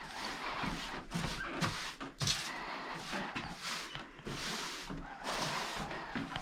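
Broom sweeping a floor: a run of short, irregular brushing strokes.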